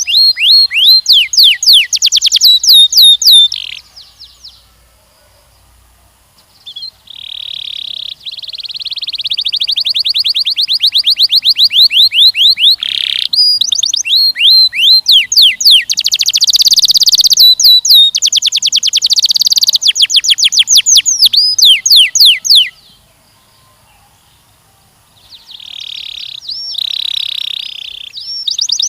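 A canary singing: long phrases of fast repeated notes, trills and quick downward-sweeping whistles. The song breaks off twice for a couple of seconds, about four seconds in and again near the end.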